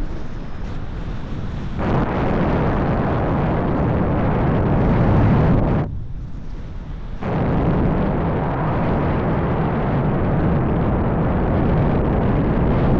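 Gusty wind buffeting the microphone, up to about 10 m/s. It strengthens sharply about two seconds in, drops off for about a second near the middle, then picks up again.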